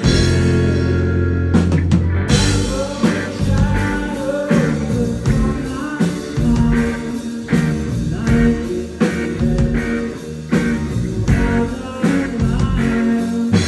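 A live rock band playing a mostly instrumental passage through a club PA: a held low note, then drums and cymbals crash in about two seconds in and the band plays on with electric guitar lines.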